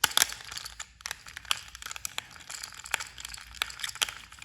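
Plastic toy train engines being handled and set down: irregular clicks and taps over rustling.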